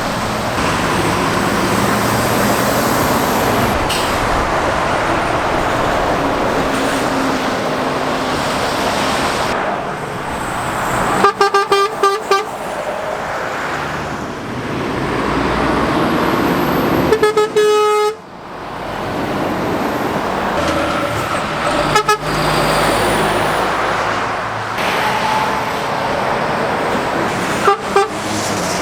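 Heavy road traffic with lorries passing, and vehicle horns tooting over it: a quick run of short toots about a third of the way in, a longer blast a little past halfway, and brief toots near the end.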